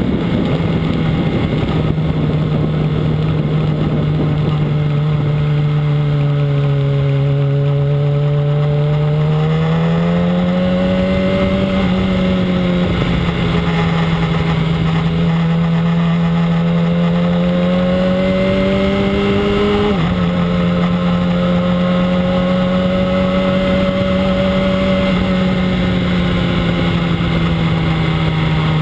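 Yamaha R1 sport bike's inline-four engine running at steady moderate revs, heard from on board with wind rush over the microphone. The pitch rises and falls gently and drops sharply once about twenty seconds in.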